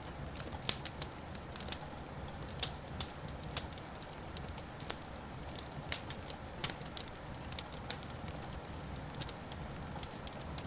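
Fireplace fire crackling: irregular sharp pops and snaps, several a second, over a steady low hiss of burning.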